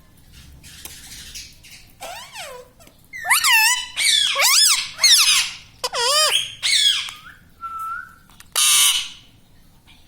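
Pet ring-necked parakeet squawking: a run of sharp, rising-and-falling calls starting about two seconds in, with a short steady whistle and then a harsh screech near the end.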